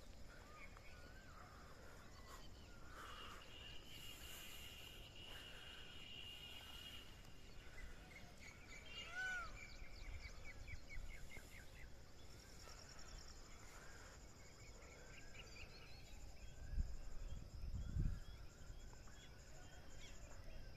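Faint bird calls: short chirps, a held whistle-like note, then a fast trill. Two low thumps come near the end.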